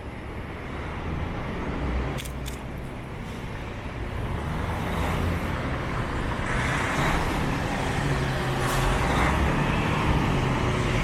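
Road traffic on a city street: vehicle engines running and tyres passing, with a low engine drone that grows gradually louder.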